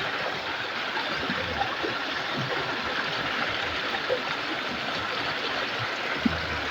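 River water flowing steadily over rocks, an even rushing hiss, with a few faint knocks near the end.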